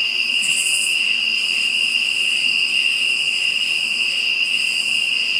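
Night insect chorus: crickets trilling in one steady high pitch, with a higher buzzing that swells in and out a couple of times.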